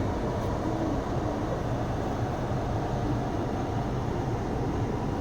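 Steady low rumble and hiss of a car heard from inside the cabin, with the engine and heater fan running.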